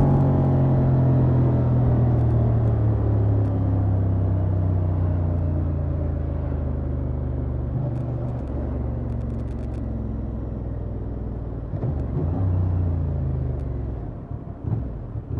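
Honda XL750 Transalp's 755 cc parallel-twin engine through its stock exhaust, revs falling steadily as the throttle is rolled off, then running low and even. A brief rise in revs comes about twelve seconds in, and the engine drops lower near the end.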